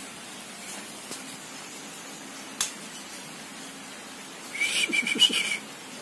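A songbird gives a short burst of rapid, sharp whistled notes about four and a half seconds in, lasting about a second. A single faint click comes shortly before the middle.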